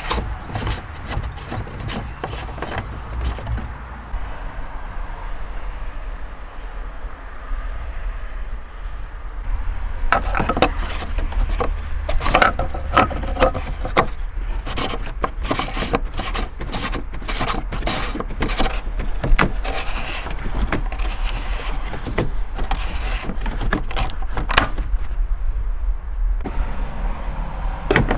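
Irregular clicks, knocks and rubbing of parts and tools being handled, over a steady low hum.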